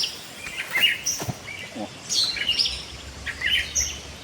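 Several songbirds chirping and calling: short, repeated whistled notes that overlap one another.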